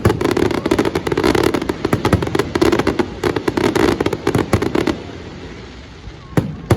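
Fireworks bursting overhead: a rapid barrage of bangs and crackles for about five seconds, thinning out, then two single bangs near the end.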